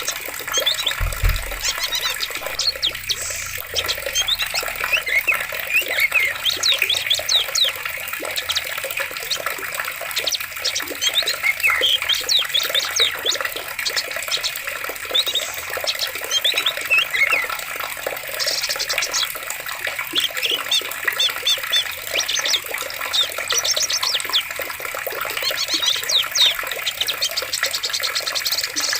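Steady flowing water in a forest, with many short bird chirps over it.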